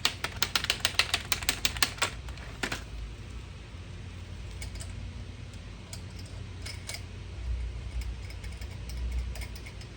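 A fast, even run of sharp clicks, about eight a second for two seconds, then a single click and a few fainter scattered ones.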